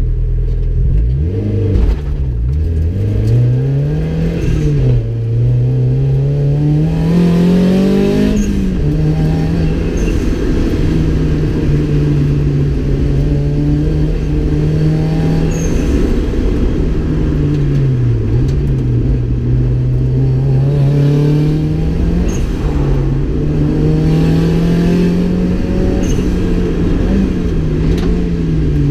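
Turbocharged Mazda MX-5's four-cylinder engine, heard from inside the cabin, revving up and down as the car is driven hard. The pitch climbs, drops sharply several times and holds steady through long stretches.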